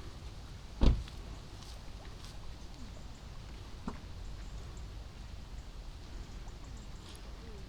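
Outdoor ambience with a steady low rumble, broken by one loud sharp thump about a second in and a softer knock near four seconds.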